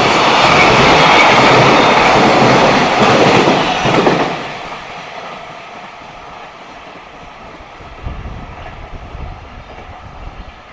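Freight train's wagons running past, a loud clattering over the rail joints that drops away suddenly about four seconds in as the end of the train goes by, leaving a faint low rumble.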